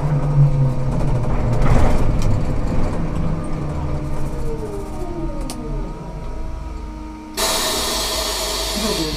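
Ikarus 280T trolleybus with GVM electrical equipment slowing down, its drive whine falling in pitch. About seven seconds in, a loud hiss of released compressed air starts suddenly and runs for a couple of seconds.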